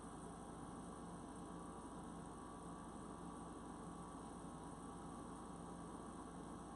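Steady, faint electrical mains hum with a low hiss: the recording's background noise, unchanging throughout.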